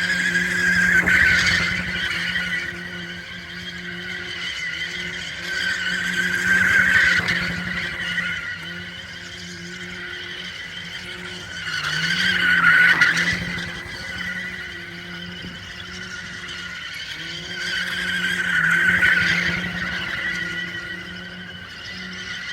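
A car drifting in circles: its tyres screech in loud swells about every six seconds, four times, over the engine held high in revs.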